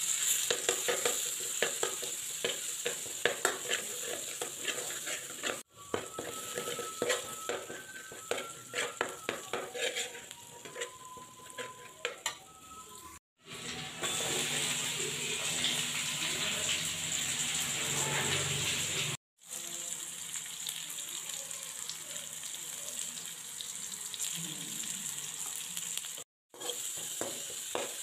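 Hot oil sizzling in a steel wok as a paste and then sliced onions fry. A metal spoon scrapes and clicks against the pan as it stirs. The sizzle is louder for a few seconds after the onions go in about halfway through, and the sound cuts out briefly four times.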